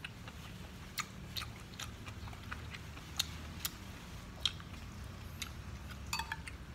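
A person chewing food close to the microphone, with about a dozen sharp crisp clicks scattered irregularly through the chewing.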